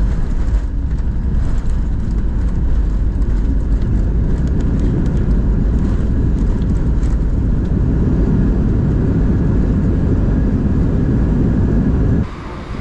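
Loud, steady low rumble of airliner cabin noise, with scattered light rattles in the first half, that cuts off abruptly near the end.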